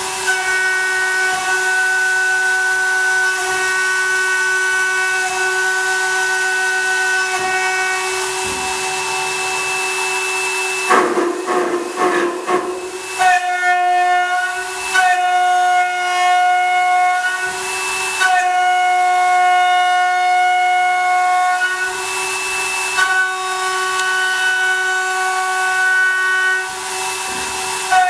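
CNC milling machine cutting aluminium, the spindle and end mill giving a steady whine made of several high tones. About halfway through it turns rough and noisy for a couple of seconds, then the whine changes pitch and comes and goes every second or two as the cut shifts.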